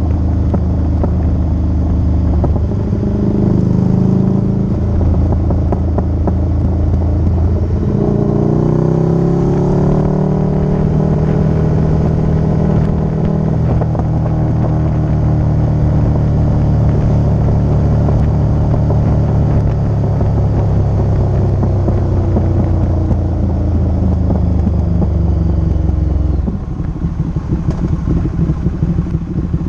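Motorcycle engine running under way, rising in pitch twice early on as the bike accelerates, then holding a steady drone. Near the end the engine note drops away, leaving a rougher, choppier rumble.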